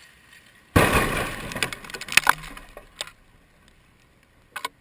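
Helicopter airframe dropping into a bed of dirt in a full-scale crash test: a sudden heavy crash followed by a couple of seconds of crunching and cracking as the structure breaks up.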